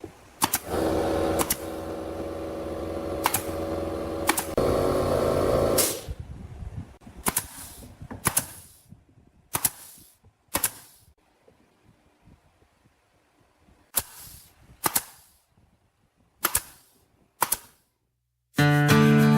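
A power tool's motor runs for about five seconds, with a few sharp clicks over it. Then come sharp knocks on wood, mostly in pairs, with pauses between them, typical of nailing or assembling a small wooden birdhouse. Acoustic guitar music starts near the end.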